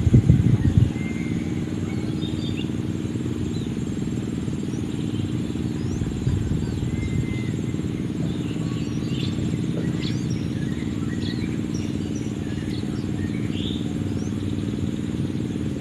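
A steady low rumble, with a few low thumps in the first second, carries faint, scattered short chirps and quick upward whistles from a cinereous tit (gelatik batu).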